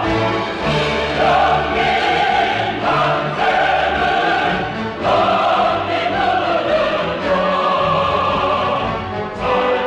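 Music: a choir singing long, held notes in parts, over instrumental accompaniment with a low bass line.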